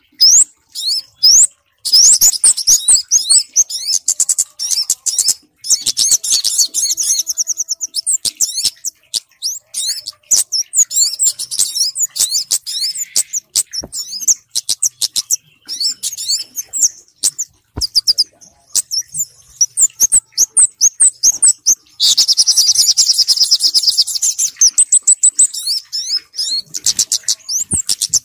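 Bird-lure recording of small-bird calls, a mix of kemade and sogok ontong: rapid, high-pitched chirps and twittering trills in quick runs with short pauses, thickest about two-thirds of the way in.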